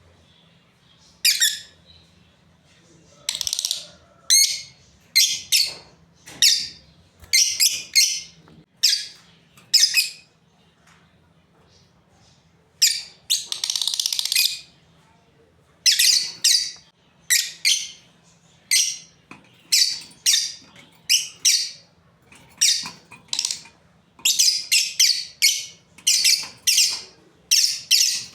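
Lovebirds giving repeated shrill, high-pitched chirps in quick clusters, with a pause of about two seconds near the middle.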